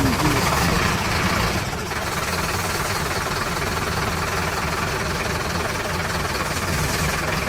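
Mini truck engine running steadily with a low rumble.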